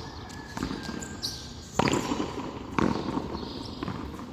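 Frontón handball rally: the ball is struck by hand and smacks against the wall, four sharp echoing knocks about a second apart.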